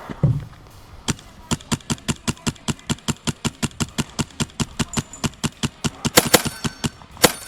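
HPA airsoft rifle, a Wolverine MTW, firing a long string of rapid semi-automatic shots, about four a second, with two louder sharp cracks near the end.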